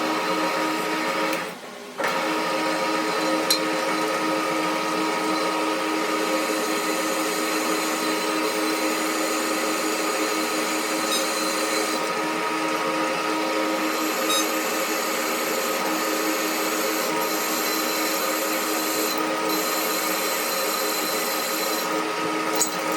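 Electric power tool or machine-tool motor running steadily at a constant pitch, with a short break about a second and a half in.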